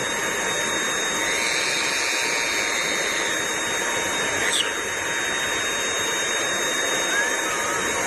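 A steady rushing noise like an electric motor and fan running, with faint high steady tones over it and a brief sharp sound about halfway through.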